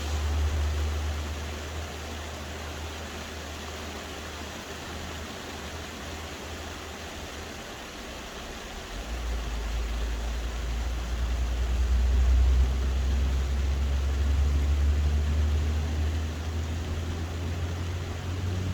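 Steady hiss of soft rain, with a deep low rumble underneath that swells about halfway through.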